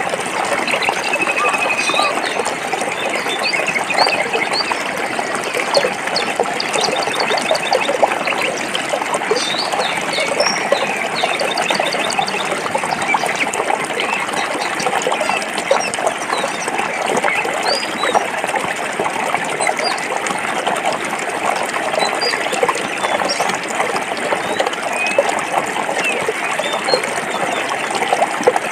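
Stream water flowing and splashing over rocks, steady and unbroken, with small birds chirping faintly above it.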